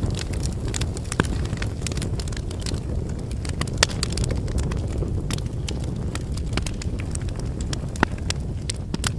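Firewood burning in an open wood fire: a steady low rush of flames with frequent sharp crackles and pops from the logs. A few louder pops stand out, about a second in, near four seconds and about eight seconds in.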